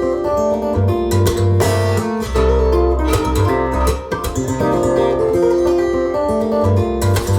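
Recorded music playing through hi-fi loudspeakers: a guitar-led instrumental with plucked and strummed strings over a prominent bass line.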